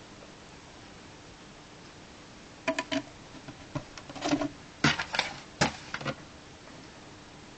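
Plastic LEGO bricks clicking and knocking as they are handled and pressed together, in a run of sharp clicks through the middle of the stretch.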